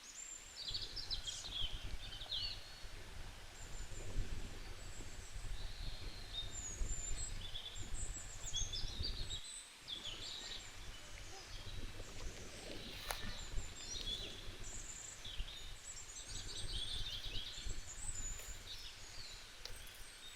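Many small birds chirping and trilling in quick high-pitched phrases, over a low rumble that briefly drops out about halfway through. A sharp click sounds about two-thirds of the way in.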